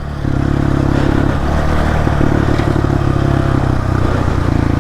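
Honda CRF125F dirt bike's single-cylinder four-stroke engine running steadily while riding along a trail, picking up slightly just after the start.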